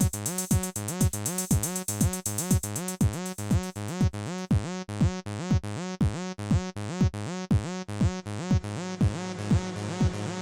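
Electronic dance music from a Roland T-8 beat machine: a four-on-the-floor kick drum, about two beats a second, under a repeating synth bass line. A fast hi-hat pattern drops out about four seconds in.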